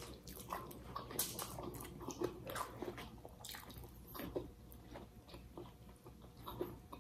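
Quiet eating sounds: chewing with small wet lip smacks and mouth clicks as baked fish is eaten by hand.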